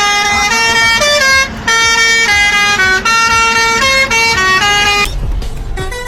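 Truck musical horn playing a quick tune, a run of loud, clear notes that change pitch every quarter second or so. About five seconds in the tune stops and a short rush of noise takes over.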